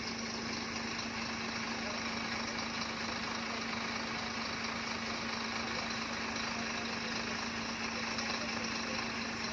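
An engine idling steadily, a constant hum with an even hiss over it.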